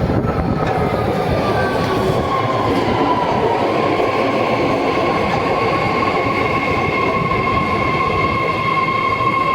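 BART train pulling into the station: rolling wheel noise under a high-pitched whine that slides down in pitch over the first few seconds as it slows, then holds steady.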